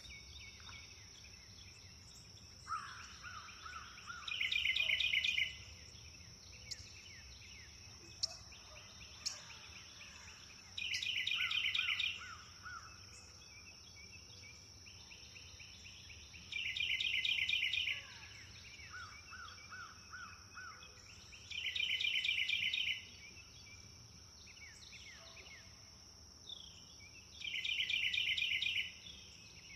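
Jungle birds singing: one bird repeats a rapid, loud trill five times, about every five to six seconds, with softer lower calls and chirps between. A steady, high-pitched insect drone runs underneath.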